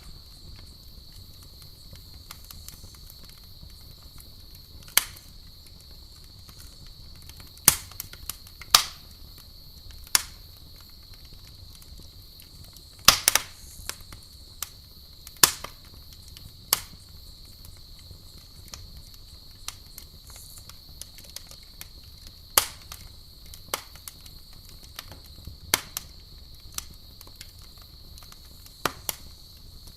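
Campfire burning, with sharp, irregular crackles and pops of wood every second or few, a quick cluster of them about halfway through. Under it runs a steady high chirring of crickets.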